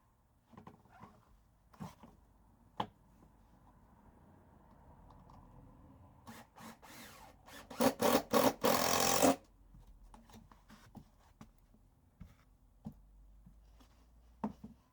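Power drill driving screws: a few short trigger pulls, then one longer run of about a second, preceded by a couple of light knocks of handling parts.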